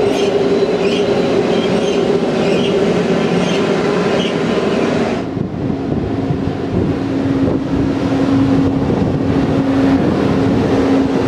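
Freight train of car-carrier wagons rolling past, its wheels clicking over rail joints about every half second over a steady rumble. About five seconds in, this gives way to an ÖBB Taurus electric locomotive passing close by with a steady electric hum.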